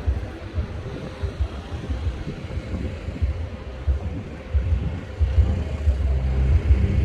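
Wind buffeting a phone microphone outdoors: an uneven low rumble that comes in gusts, over a steady background hiss.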